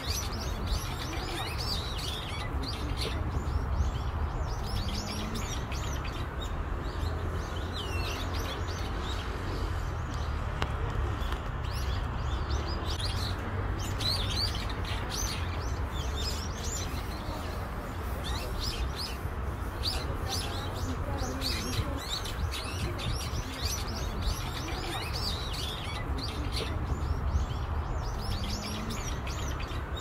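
Small birds chirping and calling, many short high chirps and quick whistled notes throughout, over a steady low rumble.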